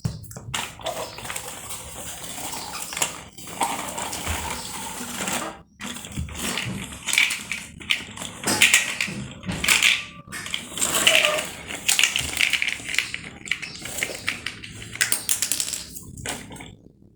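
Plastic toy vehicles being handled and rolled on a hard floor, with irregular clicking and clattering throughout.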